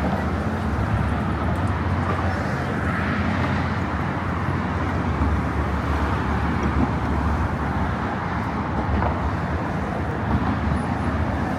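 Steady road traffic noise, a continuous rumble of passing cars with no single vehicle standing out.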